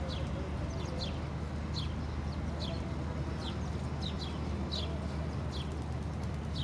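A bird chirping repeatedly: short, high, falling chirps, about one and a half a second, over a steady low hum.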